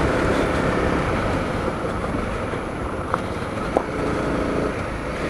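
Honda CRF250L dirt bike's single-cylinder engine running steadily, with two brief sharp ticks a little after halfway.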